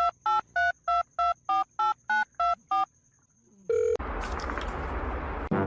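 About ten telephone keypad tones in quick, even succession, like a phone number being dialled. A short lower beep and then a stretch of loud hissing static follow near the end.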